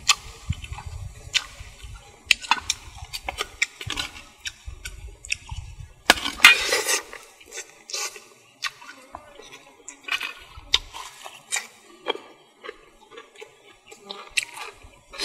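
Close-up wet chewing and lip-smacking of a person eating fish by hand, made of many short clicks and smacks. About six seconds in there is one longer, louder wet sound.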